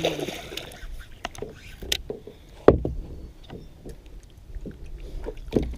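Irregular knocks and clatter against a plastic kayak hull as a freshly caught largemouth bass is landed and handled, with a sharp thump about two and a half seconds in and another near the end.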